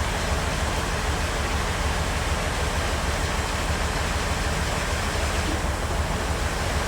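Large sawmill bandsaw running with a steady noise and a low hum that holds even throughout.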